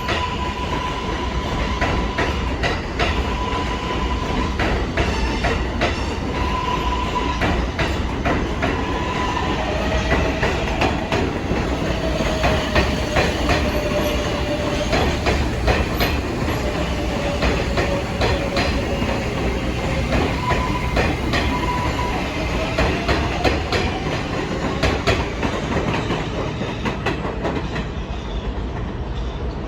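R188 subway train running through the station: a steady clatter of wheels over rail joints, with whining tones that slide up and down in pitch.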